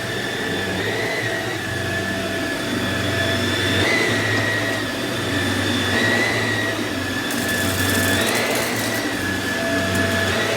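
Samsung CycloneForce upright vacuum (SU12F70SA) running steadily, its motor whine lifting slightly in pitch about every two seconds as it is pushed back and forth over the floor. In the second half it picks up a scatter of small clicks, in line with loose rice being sucked up.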